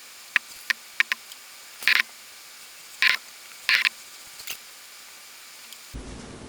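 Hand-forged, unsharpened straight razor drawn over lathered facial stubble: three short, scratchy scraping strokes, preceded by a few sharp small clicks.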